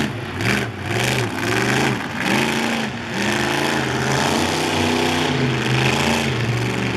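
Monster truck engine revving in about three quick rises and falls, then running steadily at high revs.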